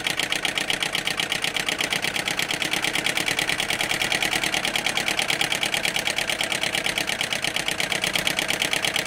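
James Maiwald flame eater (vacuum) model engine running steadily at speed, making a rapid, even clatter of many beats a second.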